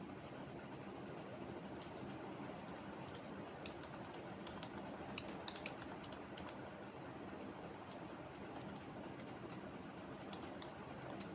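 Computer keyboard typing: irregular runs of keystrokes, thickest in the middle, over a steady low background noise.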